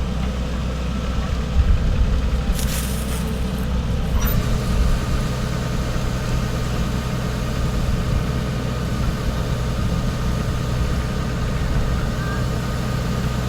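Rice combine harvester's engine running steadily with a low rumble. Briefly after two and a half seconds there is a short hiss, and about four seconds in a steady higher hum joins the engine note.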